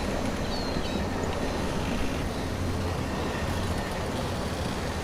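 Steady low rumble of a train running in a dubbed dockside soundscape, with a faint gull cry about half a second in.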